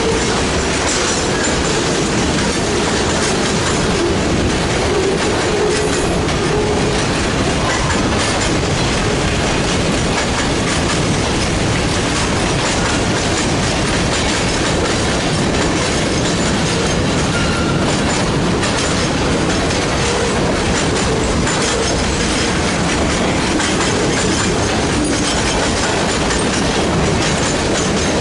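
Freight train cars rolling past close by, a steady loud clatter of steel wheels on the rails, with a few brief faint wheel squeals.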